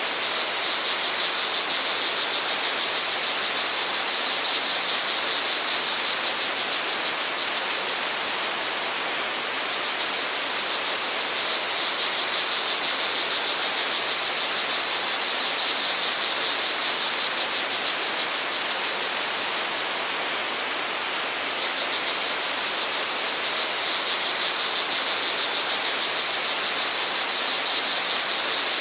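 Steady rush of flowing water from a waterfall or stream, with crickets trilling high-pitched over it in long spells that stop twice and start again.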